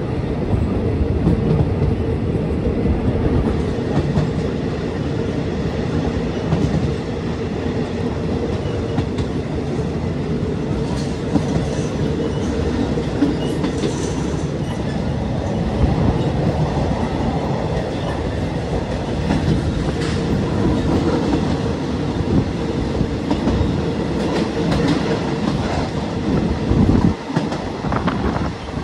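Passenger train coach running along the track, heard from an open window: a steady rumble of wheels on rail, with scattered clacks as the wheels pass over rail joints.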